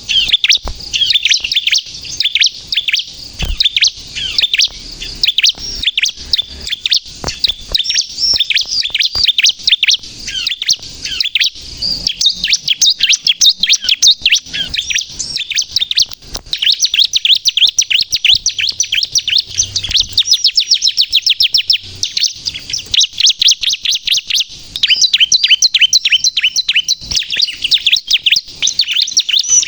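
Bar-winged prinia (ciblek, crystal colour form) in full, vigorous song: a continuous, loud run of very rapid high-pitched chirps, each note a quick downward sweep, repeated in long rattling series.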